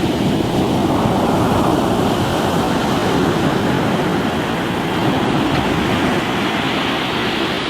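Ocean waves breaking and washing over a rocky shore: a loud, steady rushing with a low rumble, wind buffeting the microphone.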